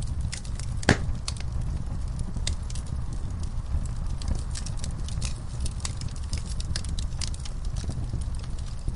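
Wood fire burning in an outdoor fireplace, crackling with irregular sharp pops, one louder pop about a second in, over a steady low rumble.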